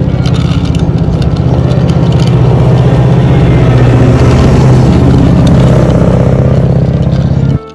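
Car engine running with a loud, steady drone and rapid pulsing, swelling slightly in the middle, then cutting off abruptly near the end.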